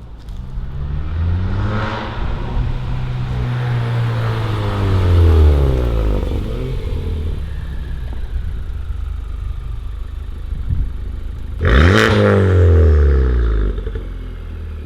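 Honda Civic Type R's turbocharged four-cylinder with a catless downpipe and Remus valved exhaust, loud under throttle. Its pitch rises and then falls over about five seconds. A sudden second, shorter burst with a sharp crack comes near the end and falls away.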